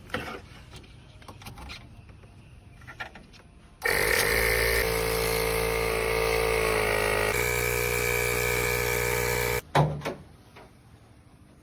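Starter motor of a Maruti Suzuki Esteem rally car cranking the engine on a cold start after six months' standing: a loud, steady electric whine for about six seconds that shifts pitch slightly partway through, then cuts off suddenly, followed by a short thump. A few light clicks come before it.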